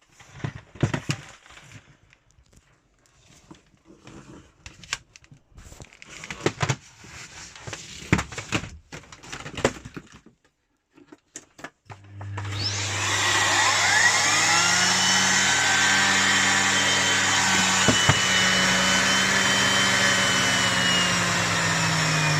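Clicks and knocks of the plastic parts of a Miele Complete C3 vacuum cleaner being fitted together. About twelve seconds in the motor is switched on, its whine rising as it spins up, and then it runs loudly and steadily, with the pitch dipping slightly near the end.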